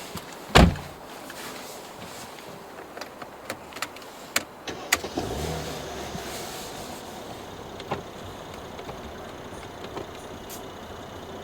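Sounds inside a car cabin: one heavy thump about half a second in, then a run of sharp clicks from the controls, then a brief electric motor whir for about two seconds around the middle.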